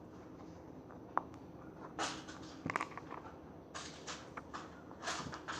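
Small plastic toy pieces being handled: a few light clicks and short rustles at irregular moments, several of them close together in the middle.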